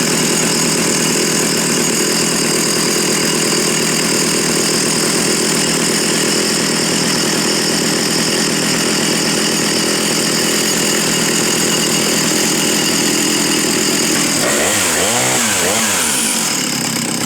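Stihl 075 chainsaw's 111 cc two-stroke engine running at high speed, steady and loud; near the end its pitch dips and rises a few times before it cuts off.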